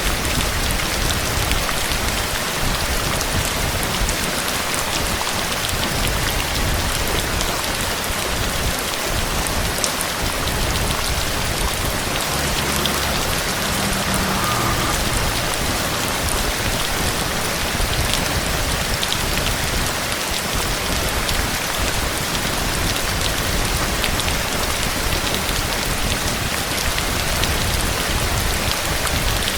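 Heavy rain falling steadily: an even, dense hiss with scattered drops ticking.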